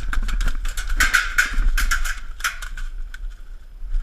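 Airsoft skirmish: a run of sharp, irregular clicks and cracks from airsoft gunfire and BBs striking, thickest in the first two and a half seconds and thinning out afterwards.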